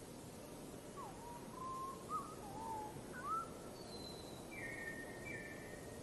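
Bird calls: a string of short whistled notes that slide up and down, then a few higher, thinner notes near the end, over a steady background hiss.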